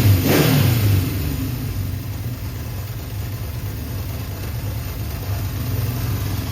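1972 Honda CB750's air-cooled inline-four engine settling from a brief rev, about a second in, down to a steady idle while it warms up.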